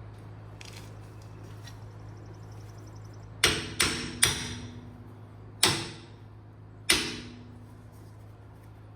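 Five metal-on-metal hammer strikes, three quick ones and then two spaced about a second apart, each ringing briefly, as a new U-bolt is knocked at on a truck's leaf-spring mount where it is binding. A steady low hum runs underneath.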